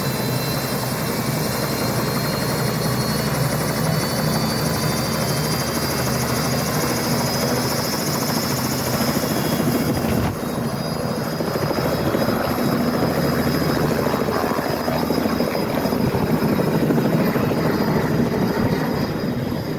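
Helicopter running steadily, its rotor and turbine engine making a continuous loud noise. The sound changes abruptly about ten seconds in, losing some of its high whine.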